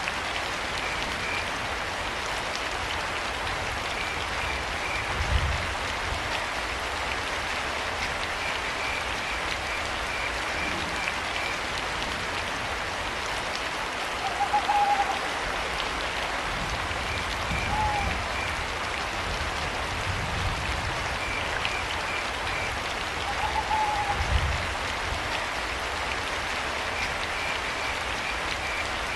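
Steady rain, with crickets chirping in short pulsed trills every few seconds. An owl hoots three times in the second half. Low thuds come three times, the loudest sounds.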